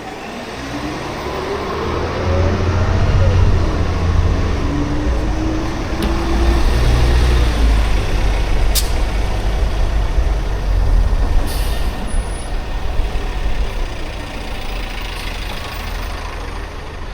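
A heavy road vehicle's engine close by, a deep rumble that swells over the first few seconds and fades toward the end, its pitch rising and falling as it works through the gears. A single sharp click about nine seconds in.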